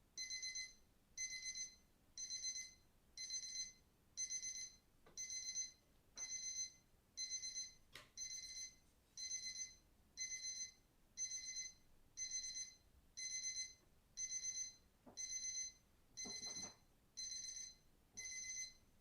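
Digital alarm clock sound effect beeping: a high electronic beep burst repeating about once a second.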